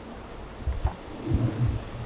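A few dull low thumps with faint rustling, starting a little under a second in.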